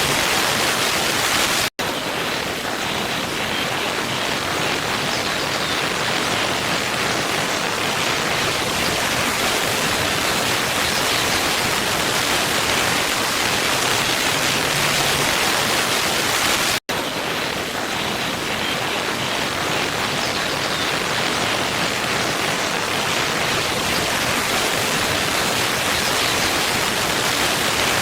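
Waterfall rushing in a steady, even roar of falling water. It cuts out for a split second twice, about two seconds in and again about seventeen seconds in.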